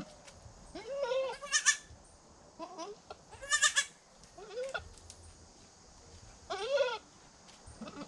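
Goats bleating: about six short, wavering calls, some of them overlapping, spread a second or so apart.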